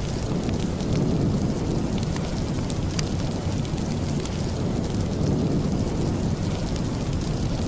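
Steady rain with a deep, even rumble underneath, dotted with scattered sharp crackles from a wood fire in a fireplace.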